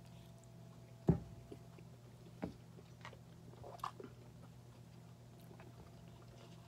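A person chewing a mouthful of donut, with a sharp knock about a second in and a softer one a little later, over a steady low hum.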